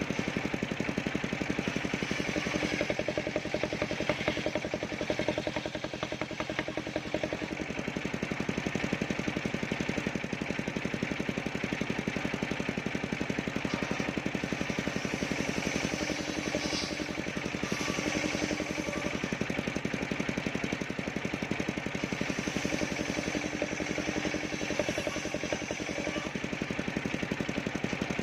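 Engine of a mobile circular sawmill running steadily, with an even, rapid firing beat and no change in speed.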